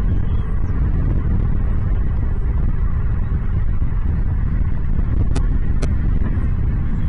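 Steady loud low rumble, like wind on the microphone or a running engine, with faint high chirps now and then and two sharp clicks about five and a half seconds in.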